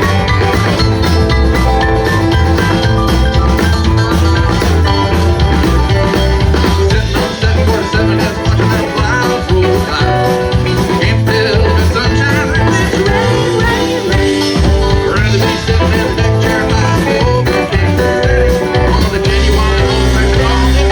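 Live band playing amplified music with a steady drumbeat over a strong bass.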